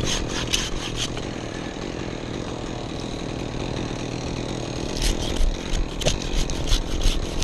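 Chainsaw running steadily at low speed, which stops a little past halfway. It is followed by a cluster of sharp cracks and knocks with some heavy thumps. A few knocks also come right at the start.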